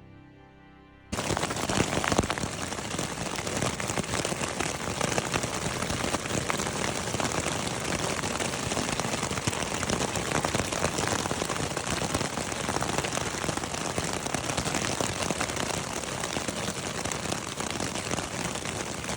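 A dense, steady patter like rain falling on a surface, starting abruptly about a second in after a faint tail of music.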